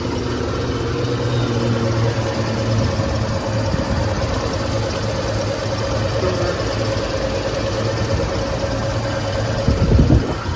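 1986 Ford F-150 engine idling steadily after a cold start. A brief low thump sounds near the end.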